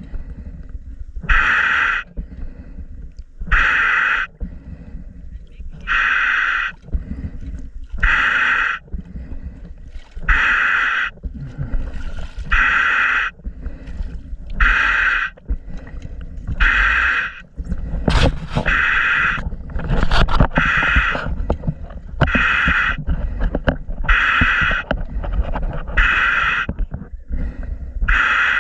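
Scuba diver breathing through a regulator underwater: a hissing breath about every two seconds, with low rumbling and bubbling between them.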